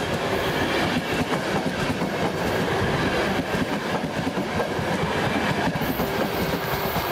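Passenger coaches of a ZSSK express train running past close by, their wheels clattering over the rail joints in a steady stream of clicks over a rolling rumble.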